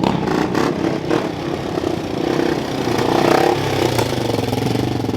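Dirt bike engine running close by, its pitch rising and falling, then settling to a steady note about three and a half seconds in.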